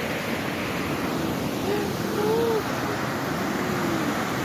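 Steady rushing of water over the Popa Falls rapids on the Okavango River, with faint distant voices briefly in the middle.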